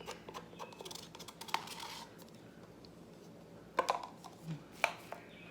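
Scattered light clicks and taps of plastic paint cups and bottles being handled and set down, with a few sharper clicks near the end.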